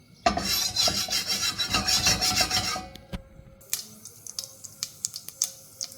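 Mustard seeds sizzling loudly in hot oil for about two and a half seconds, then popping in sharp, scattered cracks as they start to crackle.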